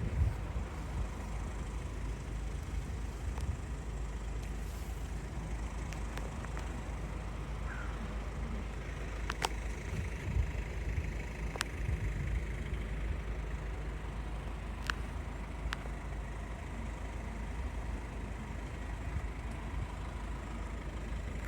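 Low, steady rumble of motor vehicles, with a few sharp clicks about halfway through.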